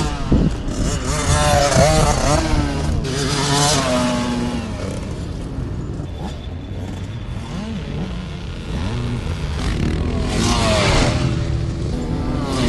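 Motocross bike engine revving, its pitch rising and falling over and over. It gets quieter midway and comes back louder near the end.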